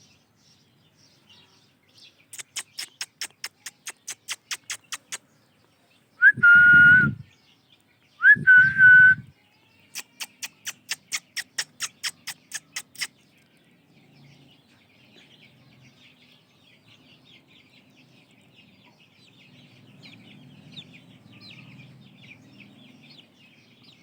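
Two loud, steady whistles of about a second each, each starting with a short upward slide. They are set between two runs of rapid, even clicks, about five a second. After them comes faint, high chirping, likely from the ringneck parrot chicks.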